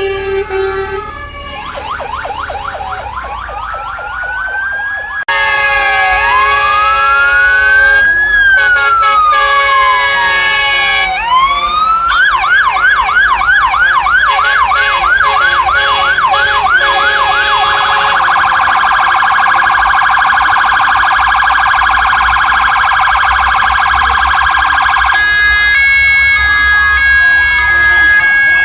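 Several fire engine sirens sounding at once, switching between slow rising and falling wails, fast yelps and a rapid warble, with a steady tone near the end.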